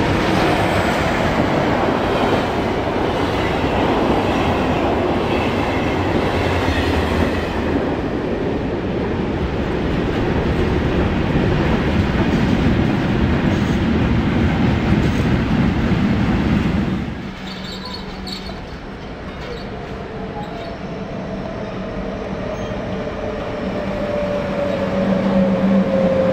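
Trains passing through a station: a steady loud rumble of steel wheels on rails, with clatter over the track. About two-thirds of the way in the sound drops away abruptly. An SBB Re 460 electric locomotive then approaches, its electric whine falling in pitch and growing louder as it slows into the platform.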